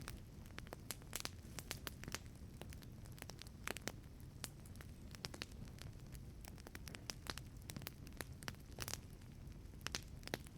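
Wood fire burning in a wood-fired pizza oven, crackling with many irregular sharp pops and snaps over a steady low rumble.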